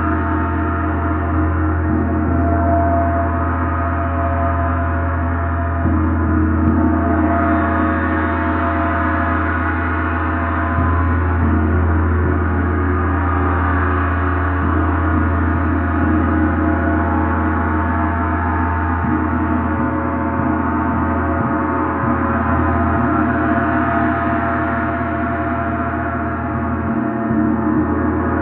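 Gong played in a continuous, swelling wash: many overlapping ringing tones shimmering over a deep steady hum.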